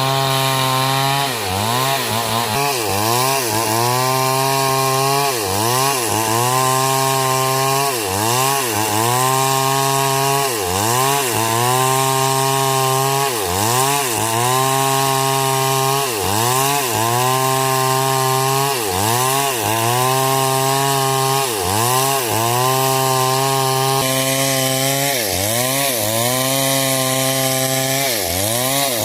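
Stihl MS 070 chainsaw's big single-cylinder two-stroke engine cutting into hard coconut wood, its pitch dipping and recovering every second or two as the chain bites and the engine bogs under load.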